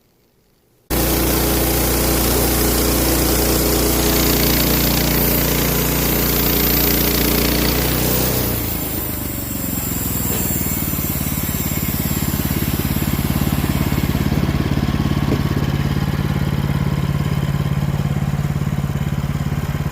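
Sawmill running and making the first cut through a walnut log, starting abruptly about a second in; the engine note and the high hiss change about eight seconds in, then the sound runs steadily.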